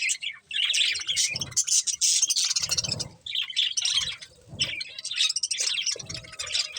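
Budgerigars chirping and chattering rapidly and continuously, with a few short low thumps mixed in.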